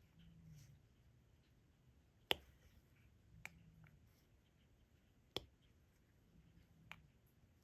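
Diamond-painting drill pen pressing resin drills onto the sticky canvas: four sharp small clicks a second or two apart, the first and third the loudest.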